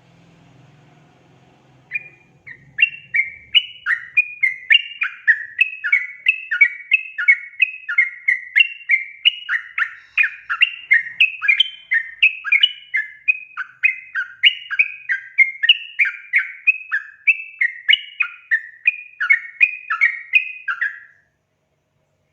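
Yellow-vented bulbul (trucukan) singing a long, fast run of bubbly, chattering notes, about two a second. It starts about two seconds in and stops abruptly near the end.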